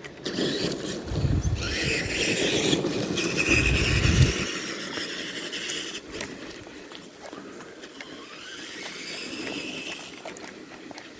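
Tamiya TXT-2 RC monster truck's electric motor and gears whining, rising in pitch as the throttle opens, with rumbling from the tyres. It is loudest for the first four seconds, then eases to a quieter, slowly rising whine with a few clicks.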